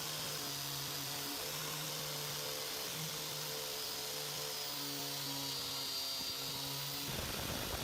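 A small electric power tool, such as a drill or rotary tool, running steadily with a low motor hum under a hiss of working noise. About seven seconds in, the sound turns rougher and grittier.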